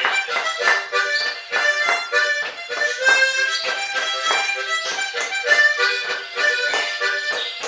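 A harmonica playing a lively tune of quick notes in a steady rhythm.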